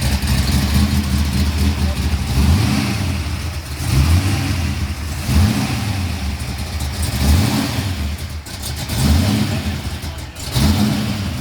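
Race car engine idling with repeated throttle blips, its pitch rising briefly every second or two.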